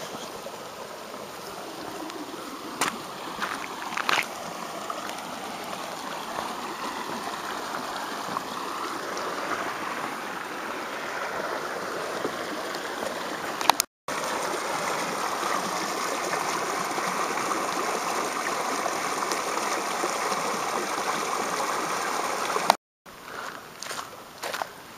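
Water running and trickling in a small creek, a steady rushing that grows louder after a brief dropout about halfway through and drops out again for a moment near the end.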